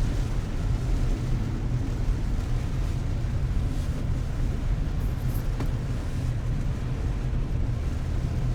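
Steady low rumble of a car's engine and tyres on the road, heard from inside the cabin, with a single light click about five and a half seconds in.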